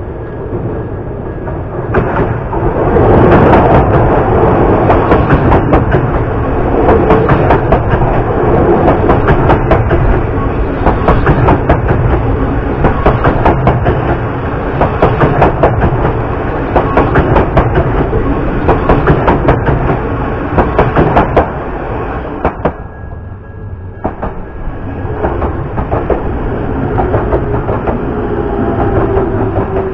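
Odakyu electric commuter train passing close through a level crossing: steady rolling noise with many sharp wheel clicks over the rail joints. The noise dips briefly about 23 seconds in, then builds again, with a faint rising motor whine near the end.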